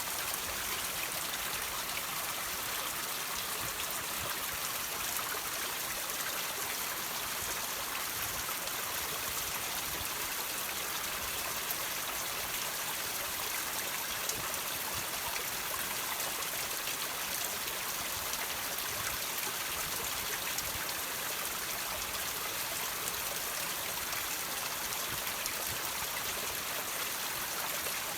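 Water trickling and dripping over rocks, a steady running-water sound.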